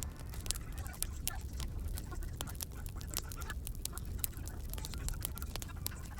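Wood fire crackling: irregular sharp pops and snaps several times a second over a steady low rumble of the flames.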